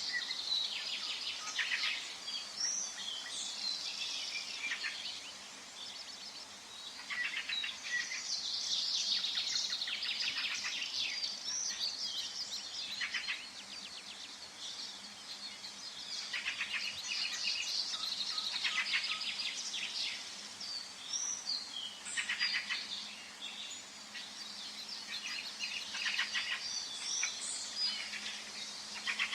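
Several songbirds singing and chirping together in a forest, in overlapping bouts of rapid trills and short chirps every few seconds over a faint steady hiss.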